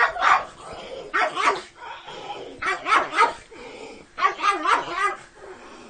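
Pug barking in four short bursts of two or three barks each.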